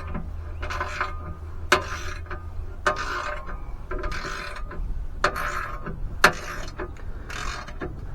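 Hand ratchet worked in repeated short strokes, about one a second, each a burst of clicking with a few sharper metal clicks.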